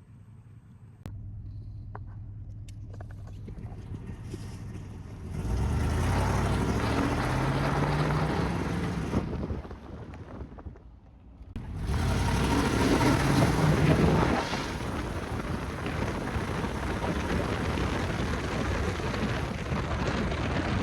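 1999 Chevy Tahoe's 5.7 L Vortec V8 running and pulling away: engine pitch rises as it accelerates, eases off briefly about ten seconds in, rises again, then settles into steady driving noise.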